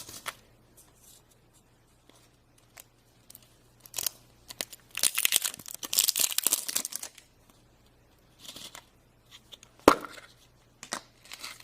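A toy surprise package being torn open by hand: scattered crinkles and clicks, with a longer stretch of tearing and crinkling about five to seven seconds in.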